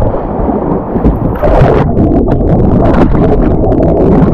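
Rushing whitewater rapids, with splashes and heavy wind buffeting on the microphone.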